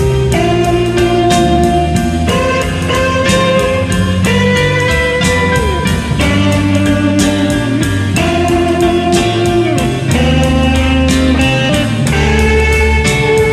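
Blues-rock instrumental break: an electric lead guitar plays long held notes that bend in pitch, over bass and drums.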